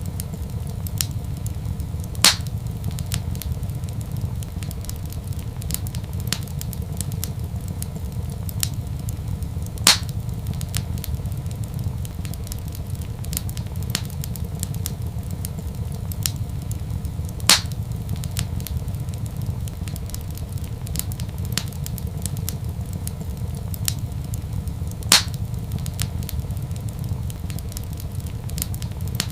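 Crackling wood fire in a fireplace: a steady low rumble under a continual patter of small crackles, with a louder sharp pop about every seven and a half seconds, four in all.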